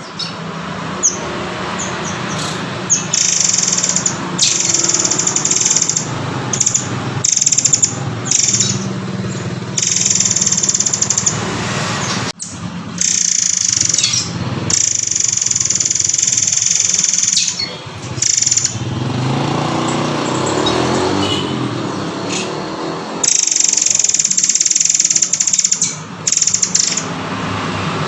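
Recorded song of the murai air (murai kopi) songbird: shrill, high-pitched call bouts of one to three seconds, repeated many times over a low steady hum.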